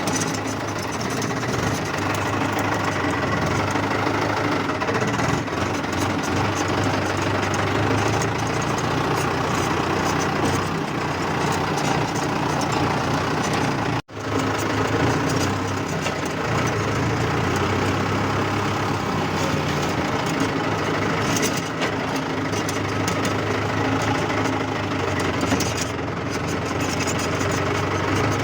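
Mahindra tractor's diesel engine running steadily, with a brief break about halfway through.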